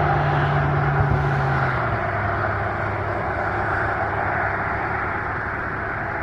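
A steady engine drone with a low hum. A low steady tone within it stops about two seconds in.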